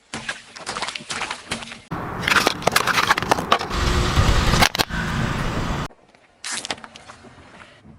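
Objects cracking and crunching as they are crushed under a car's tyres, heard in several short clips that cut in and out abruptly. The loudest stretch, from about two to six seconds in, has dense crackling over a low rumble.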